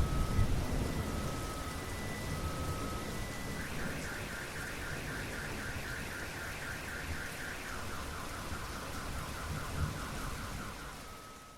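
Steady rain with a rumble of thunder at the start, and a car alarm sounding through it. The alarm cycles from a slow alternating two-tone beep to a fast high warble about four seconds in, then to a lower fast warble near eight seconds. Everything fades out at the end.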